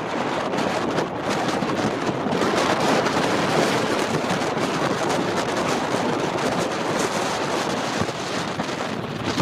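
Strong wind rushing over the microphone of a moving motorcycle, a steady noise that buffets slightly. No distinct engine note rises above it.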